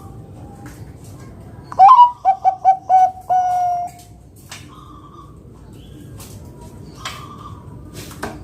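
Zebra dove (Bangkok-type perkutut) singing one loud call about two seconds in. It opens with a rising note, runs into about five short quick coos, and ends on one long held coo.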